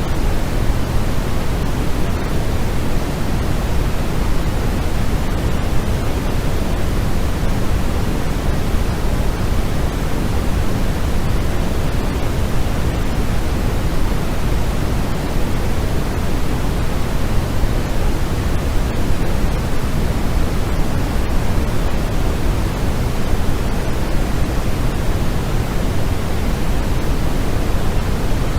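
Steady electronic white noise for sleep: an even, unchanging hiss, fuller in the low end than in the highs.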